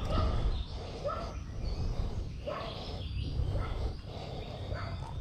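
Short bird calls repeating every half second or so, over a steady low rumble.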